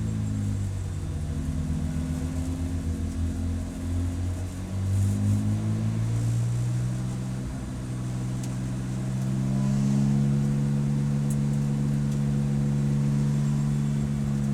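Race car engine under way, its note falling and wavering over the first few seconds, climbing again midway, then holding at steady revs for the rest.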